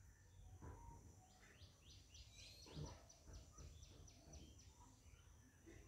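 Near silence: room tone, with a faint run of quick, high bird chirps in the middle.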